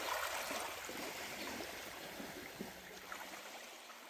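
Moving water trickling and lapping, gradually fading down.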